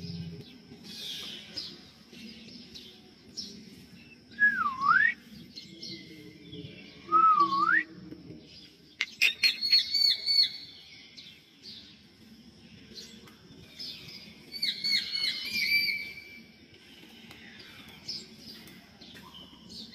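A pair of drongos calling: two loud swooping whistles that dip down and climb back up, about five and seven seconds in, and quick clusters of short repeated high notes around the middle and again near the end.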